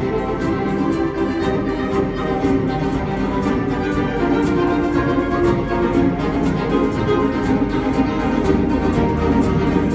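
Live concert wind band with a saxophone quartet playing sustained chords, over a fast, even ticking pulse in the percussion.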